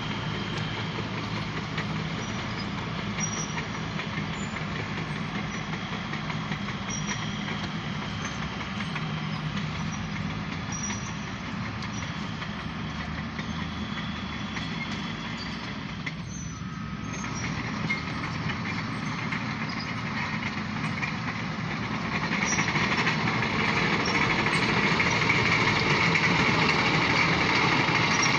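Alco diesel locomotive running steadily with a low engine drone. About three-quarters of the way through it grows louder, with a higher whine added.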